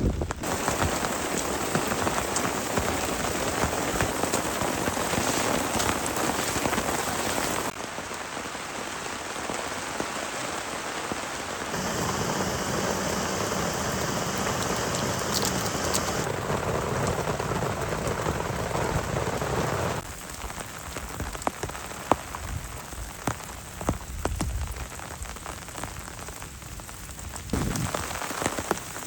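Heavy rain falling steadily on surfaces, the sound changing abruptly several times from one shot to the next. In the later part, scattered sharp drops strike close by.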